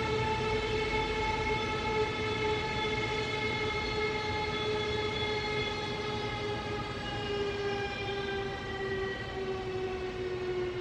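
A train running, with a low rumble underneath a steady, sustained droning tone that slowly falls in pitch.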